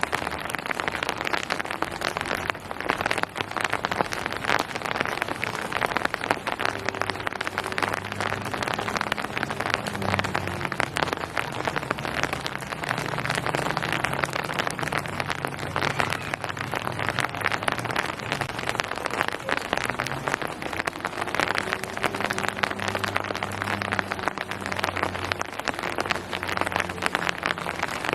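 Steady rain falling on surfaces, a dense, even patter of drops with no let-up. A low hum lies underneath, swelling and fading.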